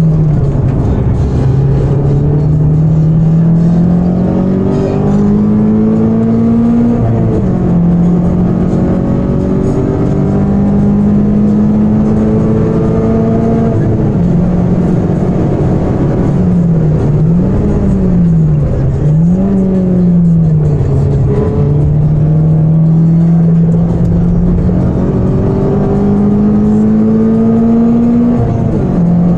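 Citroën Saxo VTS 16V's 1.6-litre 16-valve four-cylinder engine, fitted with an aftermarket exhaust manifold and air filter, heard from inside the cabin under hard acceleration. The revs climb through the gears with upshifts about seven seconds in and near the end, and in the middle they drop and jump back up a few times as the car brakes and shifts down.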